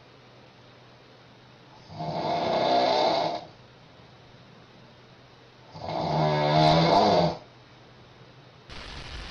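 A woman snoring in her sleep: two long snores about four seconds apart, each lasting around a second and a half, with quiet between them.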